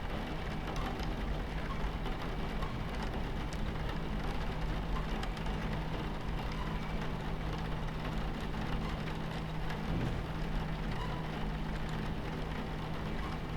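Steady rumble of a train in motion, heard from inside the cabin, with a continuous low hum, mixed with rain on the window and scattered faint drop ticks.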